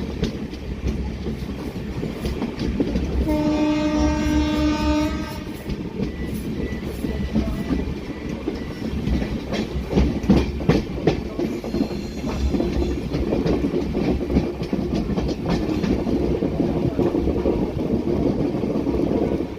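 Train running on the rails, a steady rumble with the clicking of wheels over rail joints; a train horn blows once for about two seconds, a few seconds in.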